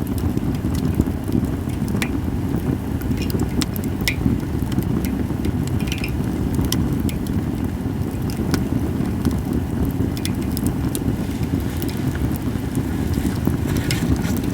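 Japanese cedar campfire crackling, with scattered sharp pops every second or two over a steady low rumble.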